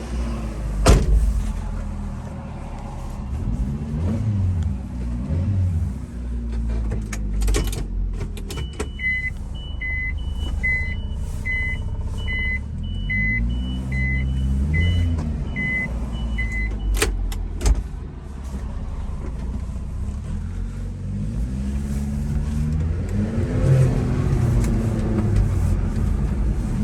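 Supercharged 660 cc four-cylinder engine of a 1992 Subaru Sambar kei truck running while driving, its pitch rising and falling again and again through acceleration and gear changes. In the middle a regular electronic beeping sounds, about one and a half beeps a second, for several seconds, with a few sharp clicks before and after it.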